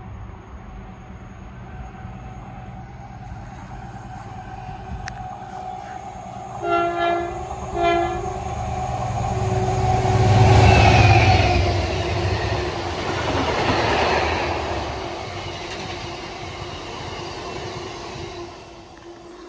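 Colas Rail Class 70 diesel locomotive sounding two short blasts on its horn, then passing with its engine loudest about ten seconds in. It is followed by a long train of tank wagons rolling past on the rails, the sound slowly fading near the end.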